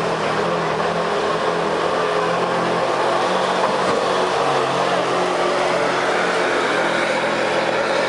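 Street-stock pickup truck engine running loud and steady at high revs, its pitch wavering only slightly, as in a truck pulling the sled down the track.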